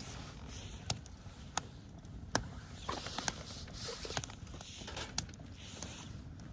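Campfire crackling: burning wood gives sharp, irregular pops about once a second over a low rumble and soft hissing.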